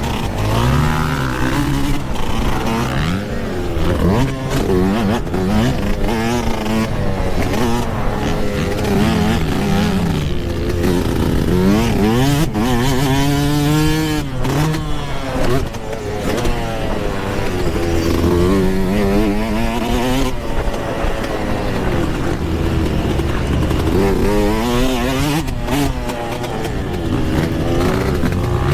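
Yamaha YZ125 two-stroke dirt bike engine on the track, its revs climbing and dropping over and over as the throttle is opened and closed, over constant rushing noise.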